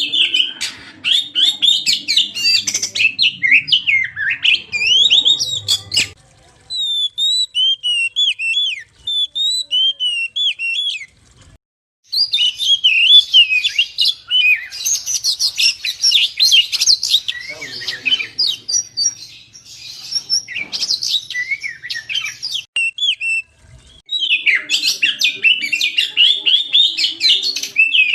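Oriental magpie-robin (kacer) singing a fast, varied song of loud whistles, trills and chirps. It breaks off abruptly a few times and starts again.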